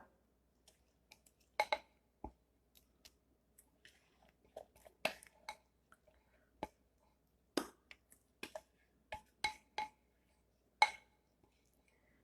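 A spatula knocking and clinking against a bowl and baking dish as cake batter is scraped and poured in: a dozen or so scattered light taps, some ringing briefly.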